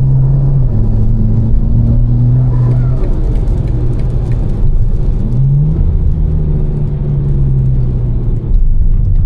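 Twin-turbo inline-six of a tuned BMW M4 with catless downpipes and a Fi exhaust, droning steadily while driving. About five seconds in its pitch jumps quickly upward and then holds at the higher engine speed.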